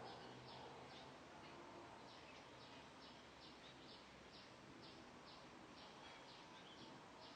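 Faint bird calls: a steady run of short, high chirps, about three a second, over a soft background hiss.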